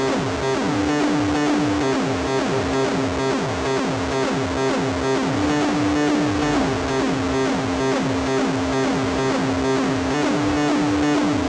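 Eurorack modular synthesizer patch built around a Herford VCS module, sounding spaceship-like effects. A held drone steps up to a slightly higher note for about a second, three times. A pulsing higher tone and rapid, repeating downward pitch sweeps run through it.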